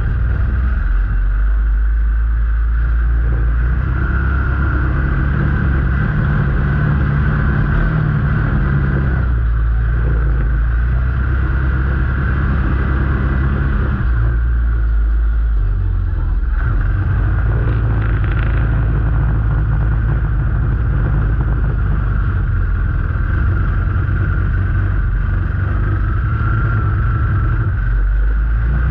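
A vehicle engine running while driving, a continuous low rumble that eases off and picks up again a few times, about ten and fifteen seconds in and near the end.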